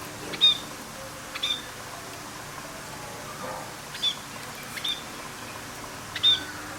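A bird giving short, high chirps, five in all, spaced unevenly, each a quick downward slide onto a held high note.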